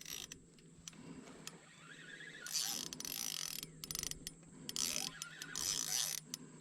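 Small ultralight spinning fishing reel being cranked in short spells, its gears ticking and whirring as a hooked prawn is reeled in.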